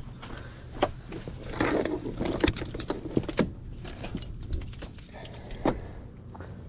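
Bungee cords being handled and sorted, their metal hooks clinking and rattling in a few sharp clicks with rustling between, busiest in the first half.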